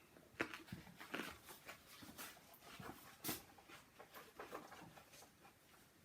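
Faint, irregular clicks and light knocks of kitchen handling, about a dozen over several seconds, the loudest a little past three seconds in.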